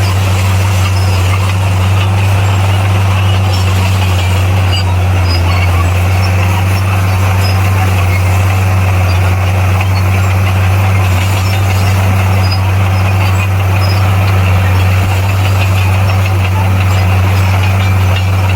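Bulldozer's diesel engine running steadily, a loud, unchanging low drone with mechanical clatter over it.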